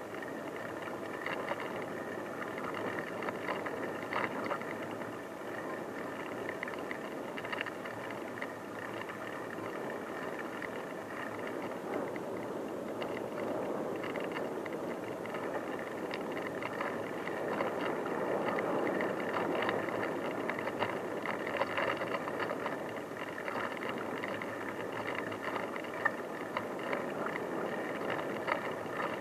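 Bicycle being ridden on an unpaved track: steady tyre and riding noise with light rattles and small clicks from the bike.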